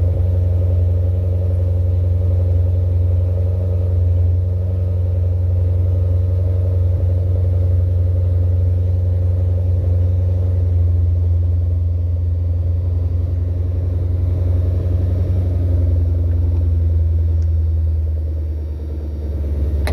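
Jaguar XF's engine idling steadily with a low, even drone that dips slightly in level near the end.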